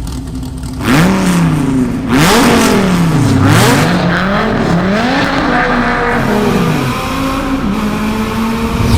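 Dodge Viper V10 through American Racing headers and exhaust, blipped hard several times in quick succession, the pitch jumping up and falling back with each rev, then settling into a steadier, slowly climbing note near the end.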